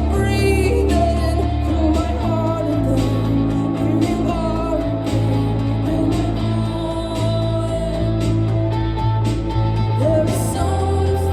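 Live rock band playing a song at full volume, with a steady bass line under guitars and drums.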